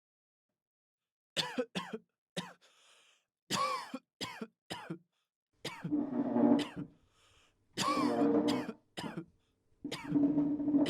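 A person coughing and clearing their throat over and over, starting about a second in: several short, sharp coughs, then longer, heavier bouts of throat clearing.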